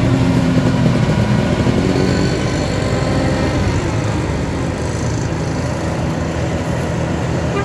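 Heavy diesel engine running steadily, its pitch easing down a little over the first couple of seconds.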